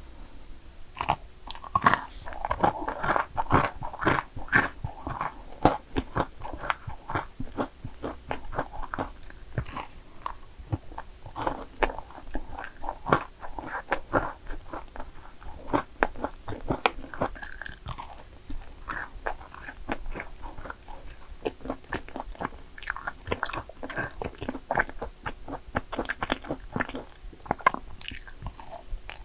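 A person biting and chewing yakgwa cookies: a quick, irregular run of crisp crunches and chewing sounds.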